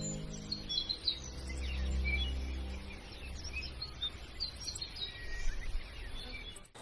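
Small birds chirping in many short, high calls, over a low steady hum.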